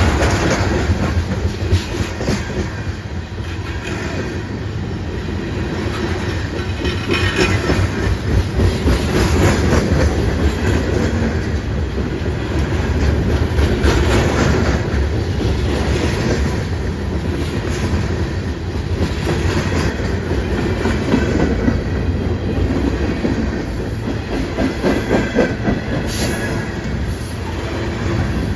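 A train rolling past close by: a steady rumble with the wheels clicking over rail joints again and again.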